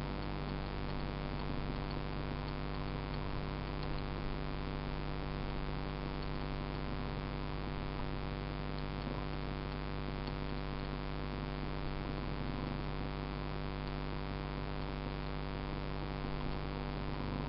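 Small single-cylinder dirt bike engine idling steadily at an even pitch, with no revs.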